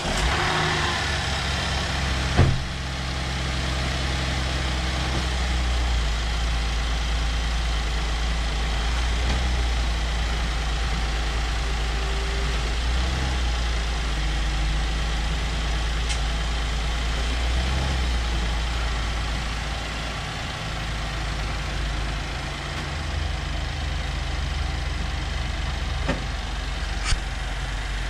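2014 Chevrolet Traverse's 3.6-litre V6 idling steadily just after starting, on freshly replaced front and rear engine mounts. A single sharp knock comes about two seconds in, and a few faint clicks follow later.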